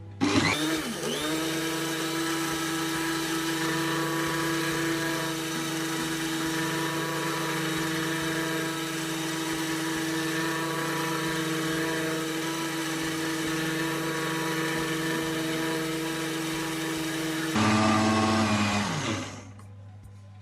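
Electric mixer starting up and beating cake batter of eggs, sugar, vanilla and oil at a steady speed with a steady whine. Near the end the pitch drops and the sound gets louder, then the mixer is switched off and winds down.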